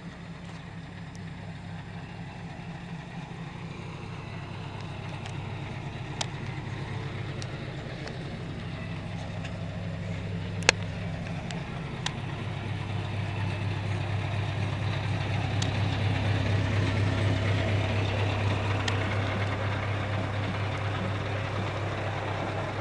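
Scania R730's 16-litre V8 diesel running steadily, growing gradually louder toward the middle and then easing off a little. A few sharp clicks break in, one clearly louder than the rest about halfway through.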